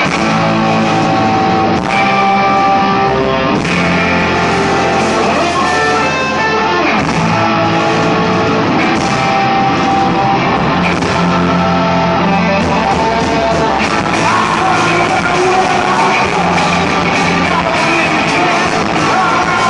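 Psychedelic punk/garage rock band playing live: loud distorted electric guitars over bass and drums, with a steady beat of drum hits.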